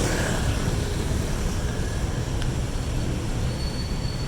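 Steady low rumble of busy city street traffic, with a faint high whine near the end.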